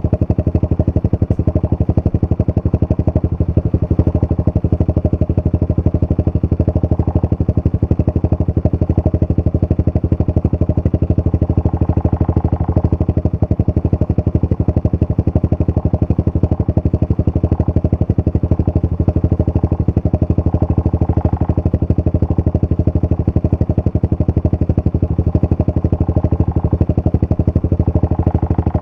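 Honda CRF125F dirt bike's single-cylinder four-stroke engine running steadily at a constant speed, with an even, rapid exhaust pulse.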